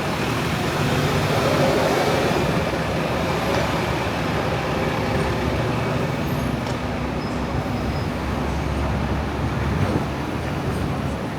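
Steady city street traffic noise: road vehicles running and passing in a continuous wash of sound.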